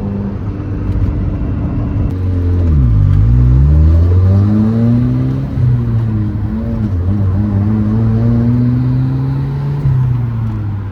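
Turbocharged Honda S2000's four-cylinder engine pulling through the gears: the revs fall steeply on an upshift a couple of seconds in, then climb steadily under load, with a drop in revs near the end.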